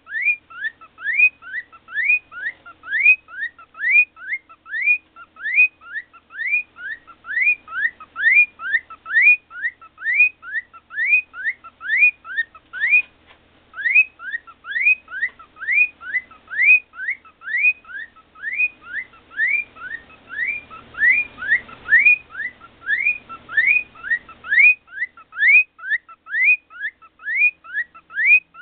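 Cockatiel whistling a long run of short rising notes, about two a second, with a brief break about thirteen seconds in.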